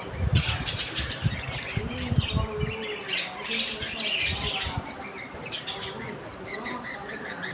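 Pet lovebirds and budgerigars chirping and squawking, many short high calls overlapping, with wings flapping during the first few seconds.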